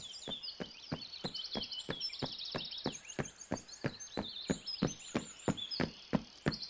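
Cartoon footsteps: even, light knocks about three a second, over a background of birds chirping and trilling.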